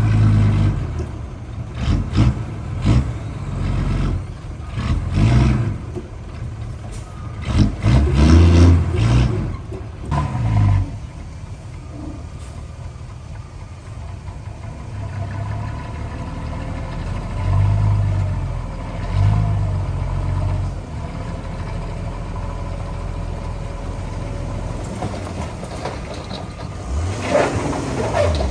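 Diesel engines of heavy construction machinery working under load, revving in repeated surges for the first several seconds, then running more steadily, with another strong surge near the end.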